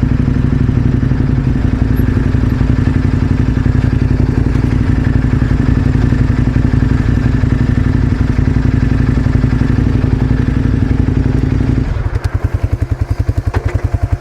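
KTM 1090 Adventure R's V-twin engine running steadily at low trail speed. About twelve seconds in it drops to idle, and its separate low firing pulses can be heard.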